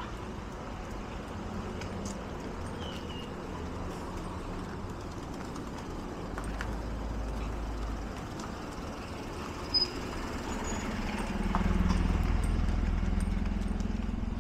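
Outdoor street ambience: a low rumble that swells about six seconds in and again more strongly near the end, with a few faint short chirps and a single sharp click about ten seconds in.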